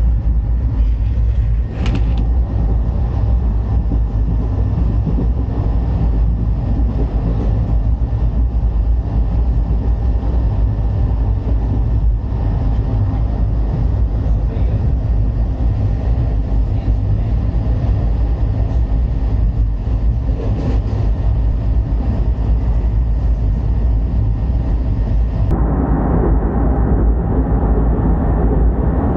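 Vasco da Gama–Velankanni Express train running along the track: a loud, steady low rumble. About 25 seconds in the sound changes abruptly, fuller in the middle and duller at the top.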